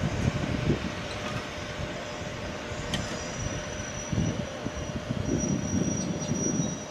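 Heritage railway coaches rolling slowly past along the platform as the train slows to a stop, a low rumble with uneven knocks from the wheels and running gear. A thin high squeal, from the brakes or wheels, starts about three seconds in and holds on.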